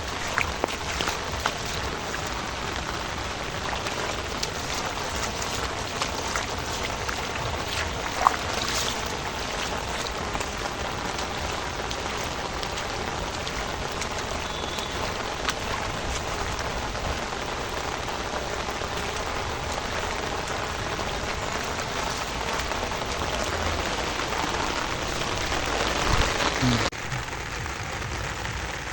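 Heavy rain falling steadily, with scattered sharper hits of single drops; the sound changes abruptly near the end, its lower part dropping away.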